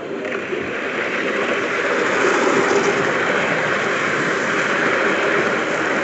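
A train running past: a steady rushing, rumbling noise that builds over the first two seconds and then holds.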